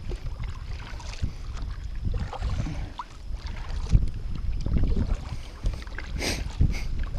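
Low rumble and scattered knocks from a fishing kayak drifting on the water, the hull and gear being handled, with wind on the microphone.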